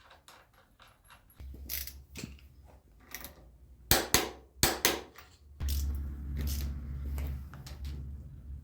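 Sharp knocks and clicks of hard objects being handled, the loudest three coming close together about four seconds in, with a low steady hum underneath that grows stronger from about halfway.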